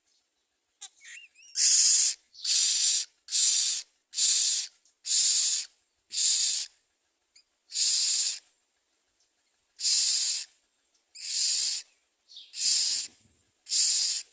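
Common mynas at the nest give a run of about eleven harsh, hissing rasps, each about half a second long. A few faint short chirps come just before them.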